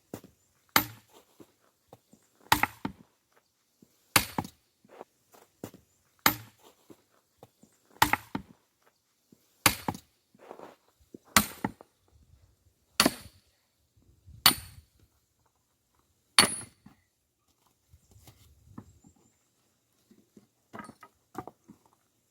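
An axe splitting firewood logs, with about ten sharp, evenly paced strikes, one every second and a half to two seconds, then softer handling sounds near the end.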